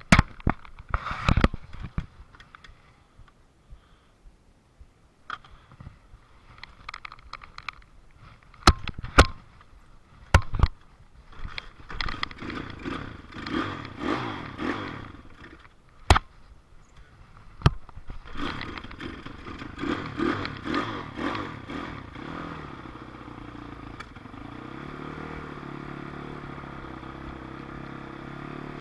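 Dirt bike engine revving in short bursts, then running at a steady, even pitch for the last few seconds. Several sharp knocks and clatters come in between.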